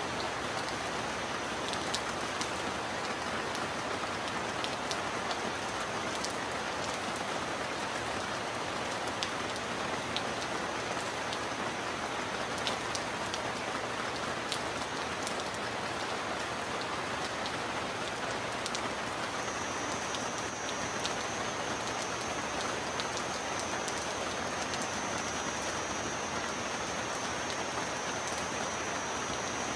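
Steady heavy rain: a dense, even hiss with scattered sharp drop ticks. A thin high whine runs through it and grows stronger about two-thirds of the way in.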